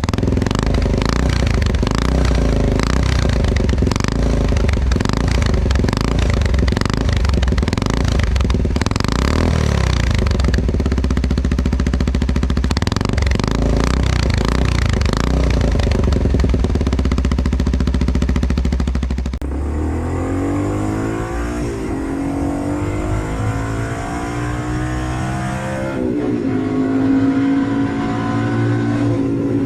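Motorcycle engine running, then revved with its pitch rising and falling. The sound changes abruptly twice, about two-thirds of the way through and again near the end.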